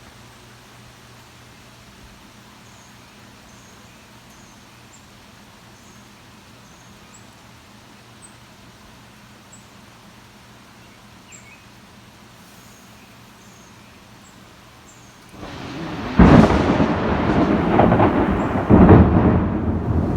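A close thunderclap. After a long quiet stretch, thunder swells in about three-quarters of the way through, breaks into a loud crack, and then rolls on as a heavy rumble with a second loud peak near the end.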